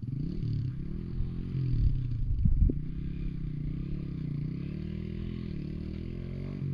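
Motorcycle engine running, its pitch rising and falling as the throttle is worked, with a few heavy low thumps about two and a half seconds in.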